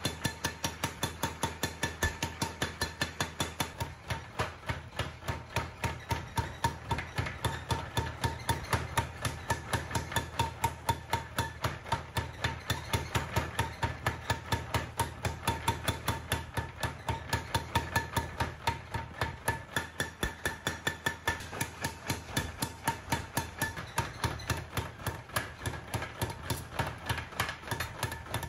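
Steady, even hammering on hot bearing-ball steel being forged into a chopping knife, about four blows a second, each blow ringing off the metal, with a low steady hum underneath.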